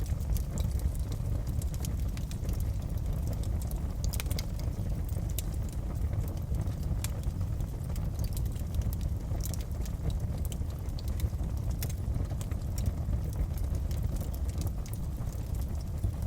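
Wood fire in a fireplace crackling, with scattered sharp pops and snaps over a steady low rumble of the flames.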